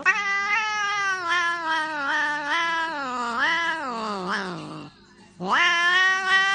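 A domestic cat yowling: one long wavering call that slides down in pitch and breaks off about five seconds in, then a second long yowl that rises and holds.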